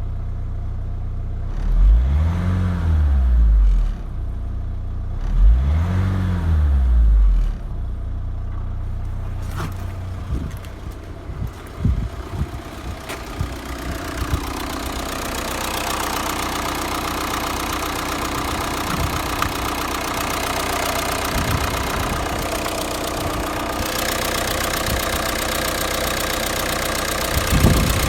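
Renault 1.9 dCi F9Q four-cylinder turbodiesel running: blipped up and back down twice near the start, then idling steadily with diesel clatter.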